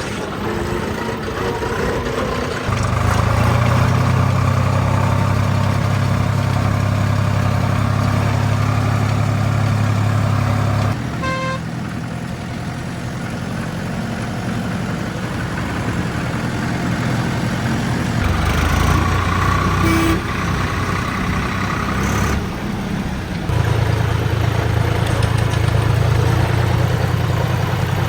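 Diesel tractor engine running hard under load, its steady note growing louder about three seconds in, easing off about eleven seconds in and pulling hard again in the last part.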